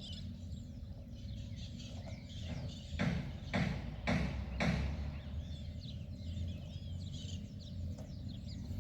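Birds chirping over a steady low rumble, with four short swishing noises about half a second apart near the middle.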